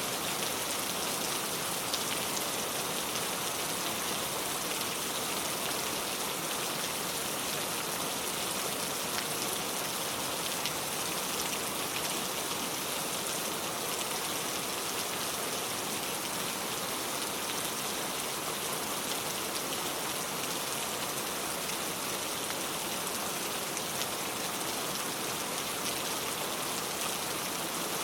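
Steady rain falling on a car, with scattered drops ticking on the body among an even hiss.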